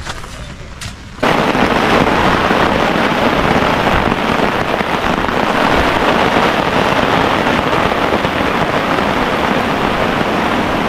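Heavy rain pouring down in a dense, steady hiss that starts abruptly about a second in.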